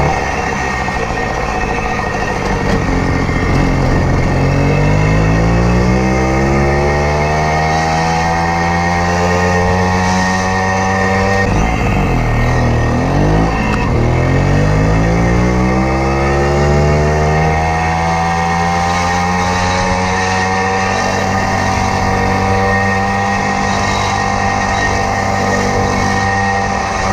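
Hercules Prima moped's 50 cc two-stroke engine under way. The revs climb for several seconds, drop sharply about eleven seconds in, then climb again and settle at a steady speed.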